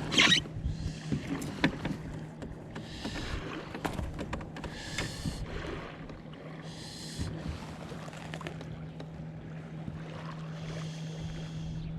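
Water sloshing against a kayak, in soft washes about every two seconds, with light knocks and a steady low hum underneath.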